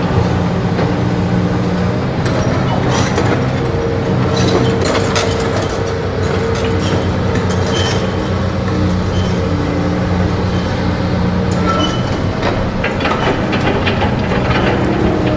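Heavy vehicle engine running steadily, with scattered metallic clanks and knocks over it.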